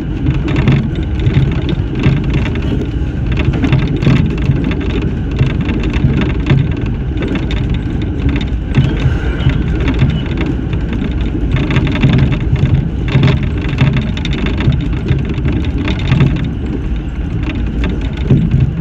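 Shinano Railway electric train running between stations: a steady rumble of wheels on rail, with repeated knocks and clatter throughout.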